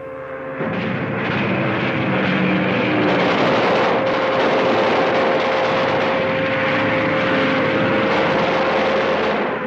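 Propeller aircraft engine droning overhead as an air-raid sound effect, with a steady tone held above it; it swells over the first second and then stays steady until it drops away near the end.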